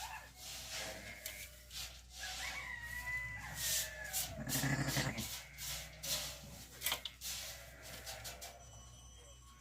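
Sheep at feeding time: a drawn-out bleat-like call a couple of seconds in, over repeated rustling and clicking of hay and straw being handled.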